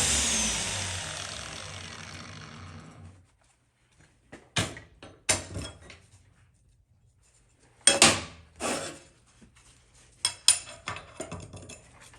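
Angle grinder spinning down after being switched off, its whine and hiss falling away over about three seconds. Then a series of sharp metallic clanks and clinks as tools and metal parts are handled.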